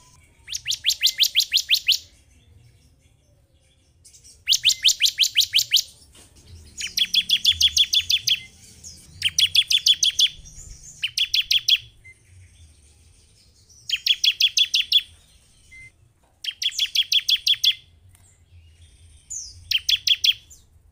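Ciblek (bar-winged prinia) calling in about eight short bursts of rapid, evenly spaced sharp notes with brief pauses between. It is a lure call used to provoke other ciblek into calling.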